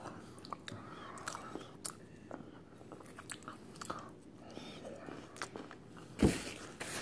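Someone biting and chewing a piece of crisp meringue: faint crunching and mouth clicks, with a brief louder noise about six seconds in.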